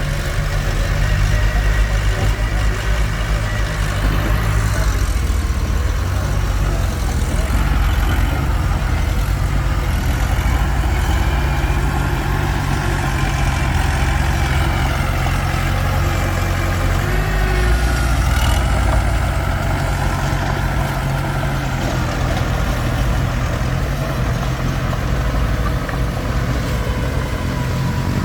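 Komatsu D21P bulldozer's diesel engine running steadily, a low, even drone.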